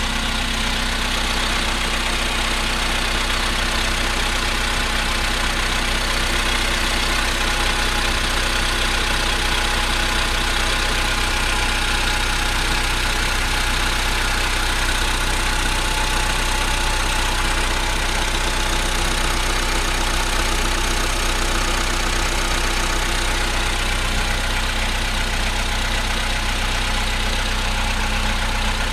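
Cold 1.6-litre CFNA four-cylinder petrol engine of a VW Polo Sedan idling steadily, with the knocking that this engine makes when cold.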